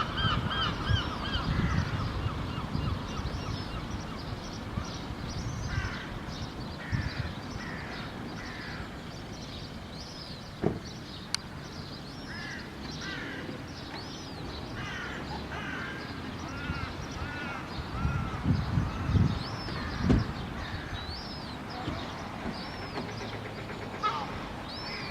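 Gulls calling: a quick run of short, arched honking calls at the start, then scattered single calls throughout. A few low thuds come about three-quarters of the way through.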